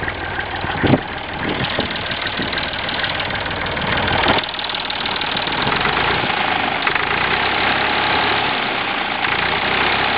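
Massey Ferguson 135's three-cylinder 2.5-litre Perkins diesel engine running just after starting, with a diesel clatter. There is a sharp knock about a second in. The engine grows a little louder up to about four seconds in, then drops suddenly to a steady idle.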